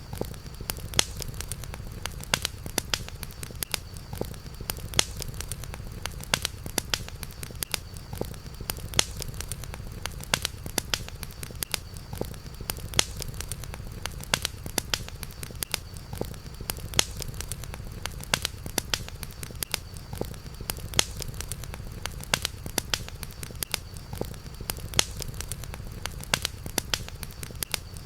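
Campfire crackling, with frequent sharp pops and snaps over a steady low rumble. A faint steady high tone runs underneath.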